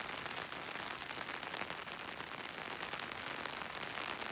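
Steady heavy rain falling: a continuous even hiss made of many fine drop ticks.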